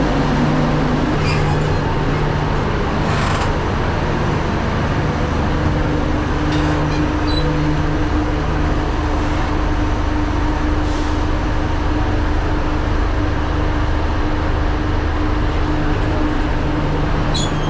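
Passenger train running, heard from inside the coach: a steady rumble with a low hum and a few scattered clicks and rattles.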